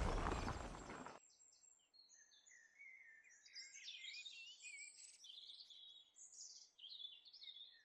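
A noisy sound fading out and cutting off abruptly about a second in, followed by faint birds chirping, many short rising and falling calls.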